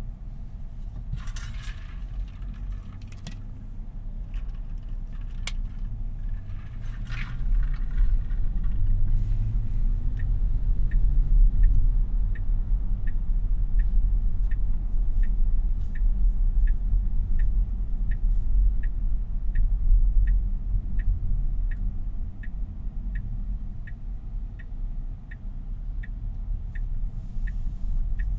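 Road and tyre rumble inside the cabin of a Tesla Model Y electric car, with no engine note, growing louder about eight seconds in. From about ten seconds in, the turn-signal indicator ticks evenly at about two ticks a second. A few brief scraping rustles come in the first few seconds.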